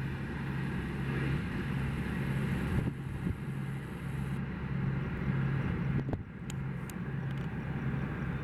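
A train running past on the rails: a steady rumble with a low hum that pulses about twice a second, and a few sharp clicks about six seconds in.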